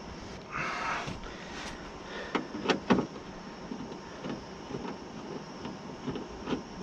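Metal parts and tools being handled inside a car door: a brief scrape about half a second in, then a series of sharp clicks and clinks.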